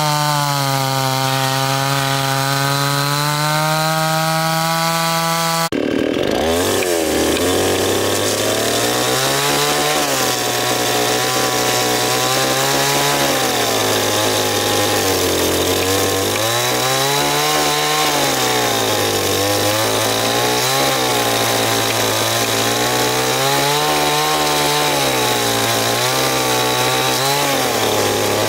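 Chainsaw running and cutting into wood, its engine note dipping under load and climbing back every couple of seconds. The sound breaks off abruptly about six seconds in and picks straight up again.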